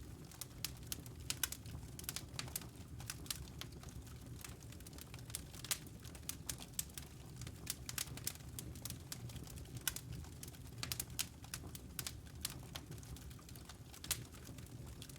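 Wood fire burning in a fireplace: irregular sharp crackles and pops from the burning logs, several a second, over a low steady rush of the flames.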